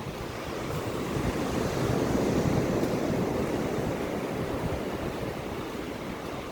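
Sea waves breaking and washing up a sandy beach, the rush of surf swelling about two seconds in and slowly easing off.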